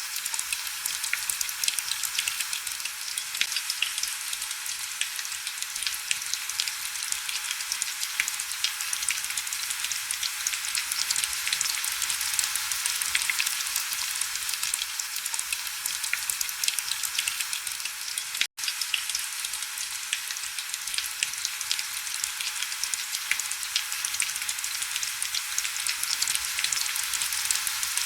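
Heavy rain: a steady, dense crackle of fine drops with almost no low rumble. It cuts out for an instant about eighteen seconds in.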